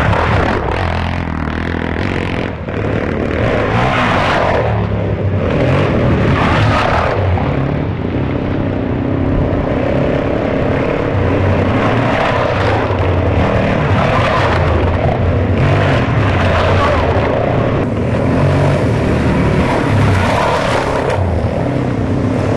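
Dirt bike engine running continuously while riding, under a rushing noise that swells and fades every few seconds.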